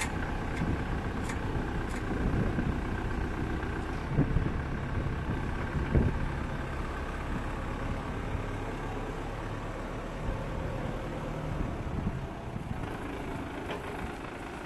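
Motor of a hydraulic boat-transport rig running steadily as a low hum, with a few short knocks and clanks, the loudest about six seconds in.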